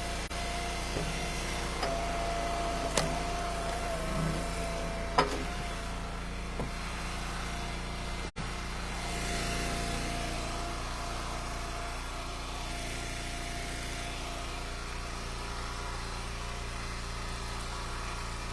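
Eastonmade Ultra wood splitter's gas engine running steadily while ash rounds are split, with a whine that comes and goes twice as the splitter works and a few sharp knocks from the wood.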